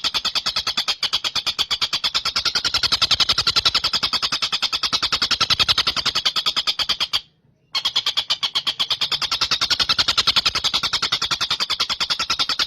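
Tengkek buto kingfisher call, a fast rattling trill of evenly repeated high notes. It breaks off for about half a second around the middle, then carries on.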